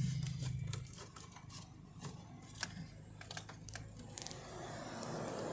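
Irregular light clicks and taps, with a low hum in the first second that then fades.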